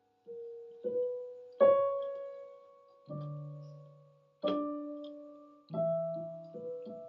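Slow melody played on an electronic keyboard with a piano sound. Single notes and chords are struck and left to ring and fade, with low bass notes under the tune.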